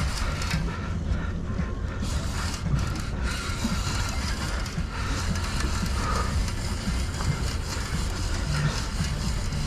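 Fishing reel being cranked against a hooked striped bass, a steady mechanical whir over a constant low rumble of boat and wind noise.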